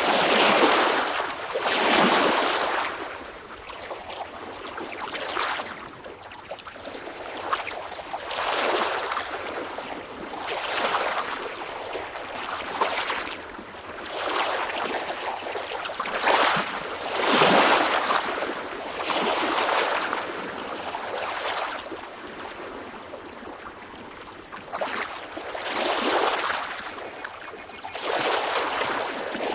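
Small waves washing and splashing, rising and falling in irregular surges every second or two.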